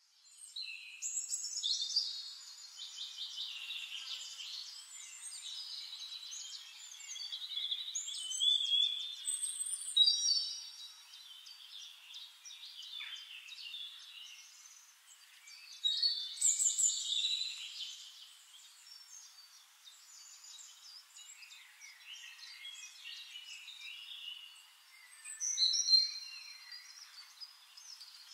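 Songbirds singing: many overlapping chirps and warbling phrases, loudest in a few separate bursts.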